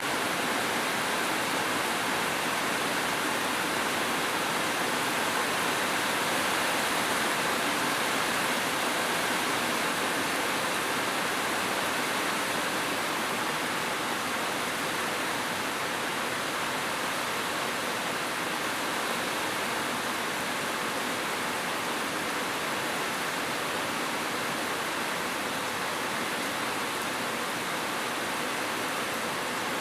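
Rain falling, a steady even hiss with no single drops or thunder standing out.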